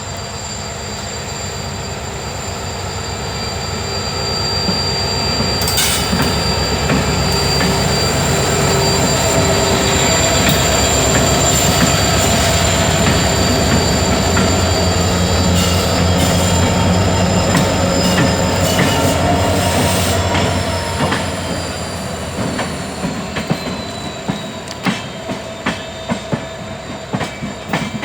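Two diesel-electric locomotives, a WDG4 and a WDG4D, hauling a passenger train: the engine drone builds, is loudest in the middle as they go by, then fades. Near the end, rhythmic clacks of coach wheels over the rail joints, with a steady high whine throughout.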